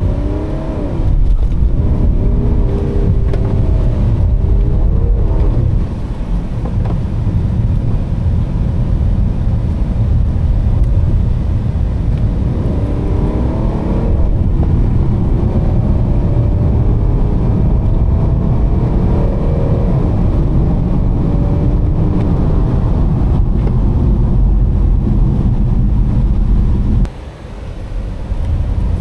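BMW 335d's twin-turbo three-litre straight-six diesel heard from inside the cabin over steady road and tyre noise, pulling through the automatic's gears: the engine note rises and drops back with each upshift early on and again in the middle. Near the end the noise falls away briefly.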